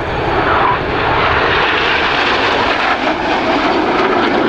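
BAE Systems Hawk jets' turbofan engines running at display power: a steady, loud jet rush.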